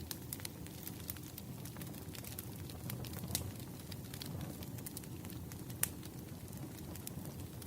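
Wood fire crackling: irregular sharp pops and snaps over a steady low rumble of burning logs, with one louder pop a little before six seconds in.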